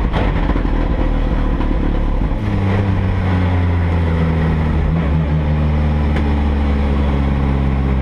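Ford Fiesta race car's engine heard from inside the cockpit, loud, while the car rolls slowly in second gear. It runs rough for the first two seconds or so, then settles into a steady low note with a slight dip about five seconds in.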